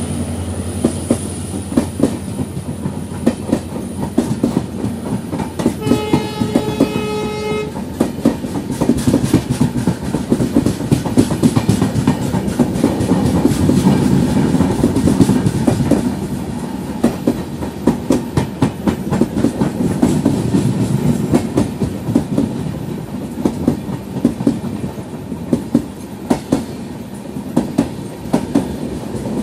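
Passenger train coaches running past on the adjacent track, their wheels clattering over rail joints in a dense, steady clickety-clack with a rumble underneath. About six seconds in, a train horn sounds once for under two seconds.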